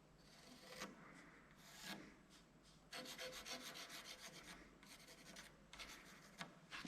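Faint scraping on wood: a few single strokes, then a quick run of short strokes from about three seconds in, lasting two or three seconds.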